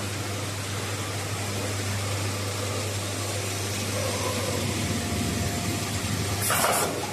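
Tarpaulin welding machine line running with a steady hum and a constant noisy wash, broken near the end by a short burst of hiss lasting about half a second.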